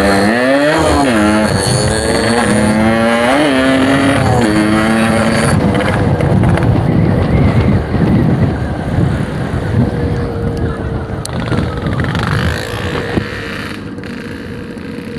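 Yamaha RX-King two-stroke single-cylinder motorcycle engine accelerating through the gears, its pitch climbing and dropping with each shift over the first five seconds. It then settles into a steadier run under wind and road noise, getting quieter near the end.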